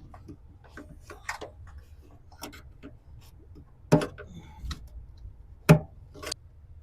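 Hand tools clicking and knocking against the car's body panels as the fender access plug is worked at, with two sharper knocks about four and five and a half seconds in.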